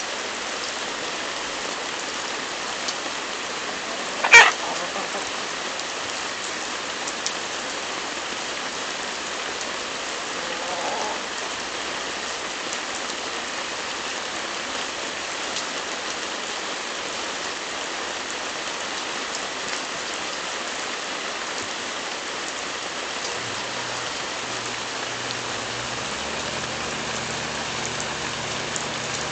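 Steady rain falling on wet ground. About four seconds in there is one short, loud, sharp sound, and near the end a low hum comes in.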